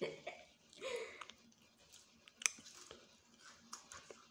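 A person chewing and biting food close to the microphone: faint wet chewing with scattered small crunchy clicks, one sharper click about two and a half seconds in.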